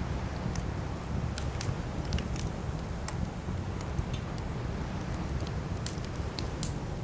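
Campfire burning with a steady low rumble, crackling and popping in sharp, irregular snaps.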